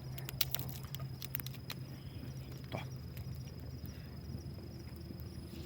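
Wood bonfire crackling, with a quick run of sharp pops in the first two seconds over a steady low rumble. A thin, steady high-pitched whine runs underneath.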